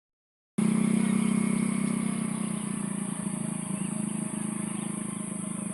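A motor vehicle's engine running steadily with a low hum, slowly getting quieter, over a steady high-pitched whine.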